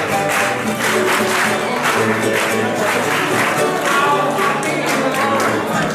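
A song performed live: voices singing together over a strummed acoustic guitar.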